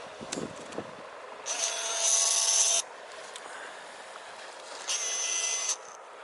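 Camera zoom motor whirring in two bursts, about a second and a half in and again near the end, a rasping whir with a high whine in it.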